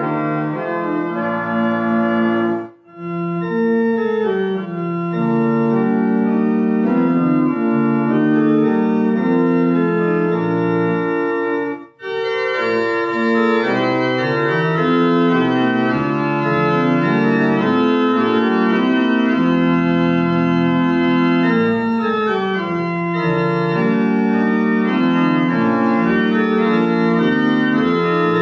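Organ music in sustained chords over a moving bass line. It cuts out abruptly for a moment twice, about three seconds in and again about twelve seconds in.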